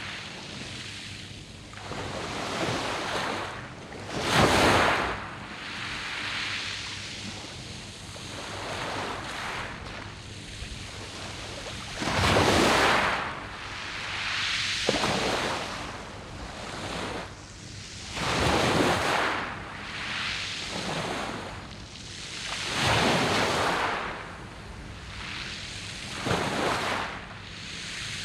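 Sea waves washing in and out on a beach of smooth round pebbles, each surge swelling and fading every few seconds, the biggest at about four, twelve and nineteen seconds in.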